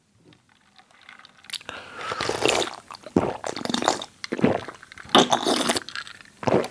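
Close-miked mouth sounds of a person drinking a carbonated soft drink: about five separate sips and swallows, starting about a second and a half in.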